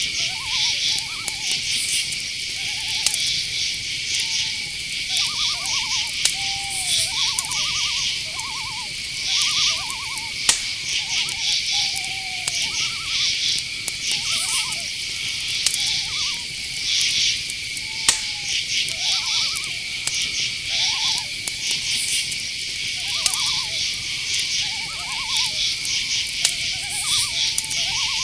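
Night forest ambience: crickets trilling steadily in a high, constant chorus, with many short, quavering hoots from owls overlapping one or two a second throughout. A couple of sharp clicks stand out, one about ten seconds in and a louder one past the middle.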